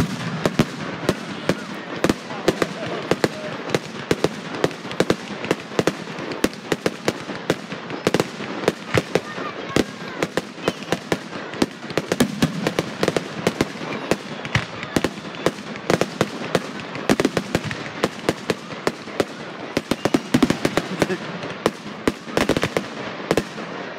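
Aerial fireworks shells bursting in quick succession, several sharp bangs a second without a pause, over a continuous crackle.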